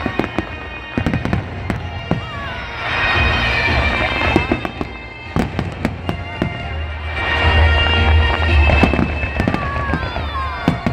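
Fireworks display: aerial shells bursting in a run of sharp bangs and pops, with a louder, deeper rumble of bursts past the middle.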